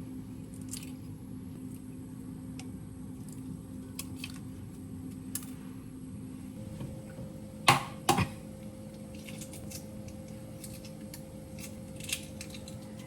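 Light clicks and taps of objects being handled, with two sharp knocks in quick succession about eight seconds in, over a steady low hum that changes tone shortly before the knocks.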